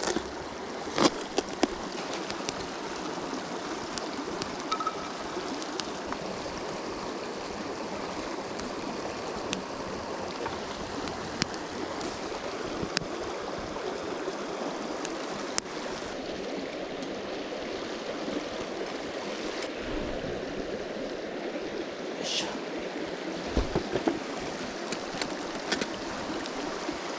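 River water flowing steadily over a stony bed, with a few scattered sharp clicks and knocks over it, one about a second in and a brighter one a little after two-thirds of the way.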